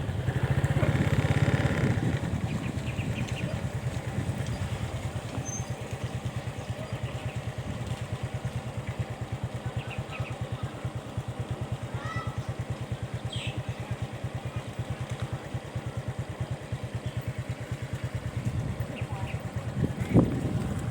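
A small engine running steadily with a fast, even beat, a little louder for the first couple of seconds. A short knock near the end.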